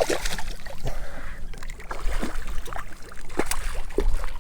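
Water splashing and sloshing around a kayak, with many short irregular knocks and clicks, as a hooked redfish is landed.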